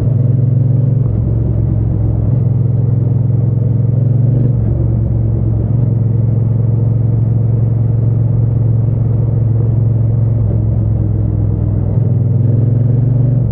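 Triumph Bonneville T120 parallel-twin engine and exhaust running under way with a steady, deep drone. Its lowest rumble shifts up and down a few times.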